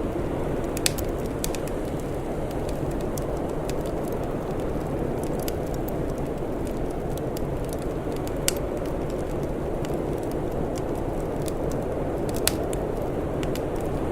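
Wood fire crackling: scattered sharp pops and snaps, three of them louder, over a steady low rush.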